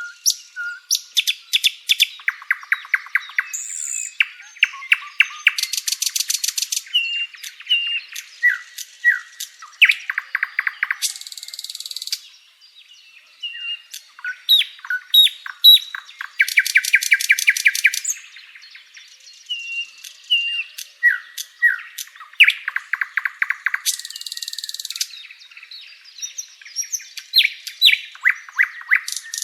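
Songbird song: a busy string of short whistled notes, quick down-slurred chirps and rapid trills. A fast, buzzy, high trill comes back about every five to six seconds.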